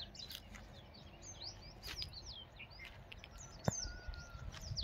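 Several birds chirping, many short high calls scattered over a faint outdoor background, with a single click partway through and a low rumble near the end.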